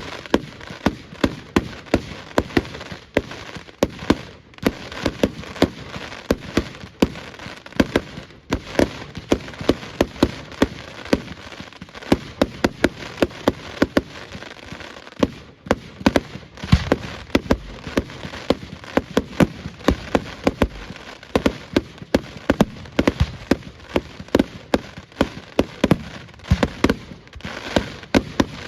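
Fireworks display going off: a rapid, unbroken run of sharp bangs and crackles, several a second, over a steady hiss.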